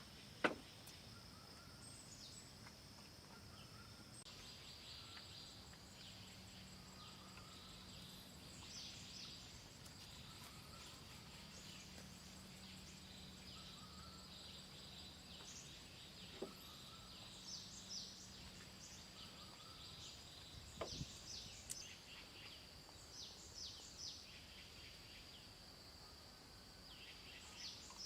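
Quiet forest ambience: a steady high insect drone with many short bird chirps over it. A single sharp knock sounds about half a second in, and a few fainter knocks come later.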